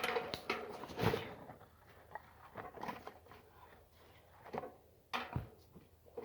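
Campfire crackling, burning wood giving off irregular sharp snaps and pops, the loudest about a second in and again about five seconds in.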